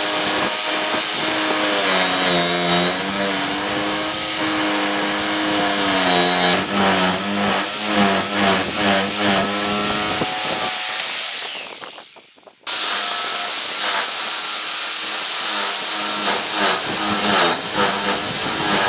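Electric power tool working wood, its motor whine dipping and recovering as it takes load, with rough chattering pulses partway through. The sound fades out a little past the middle, then the tool runs again.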